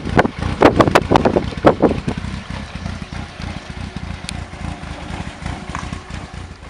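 VW Mk1 Golf engine running, with a quick series of sharp bursts over the first two seconds, then a lower rumble that fades steadily as the car draws away.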